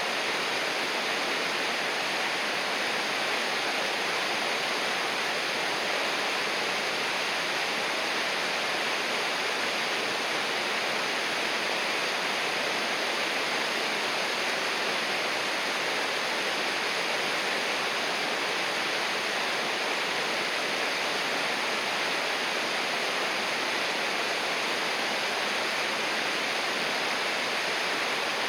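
River water rushing over rocks, a steady, even splashing roar with no breaks.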